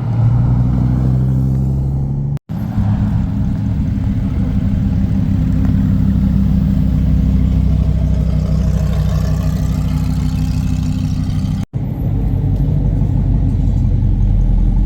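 Car engine running steadily, in three short clips joined by abrupt cuts about two and a half and eleven and a half seconds in.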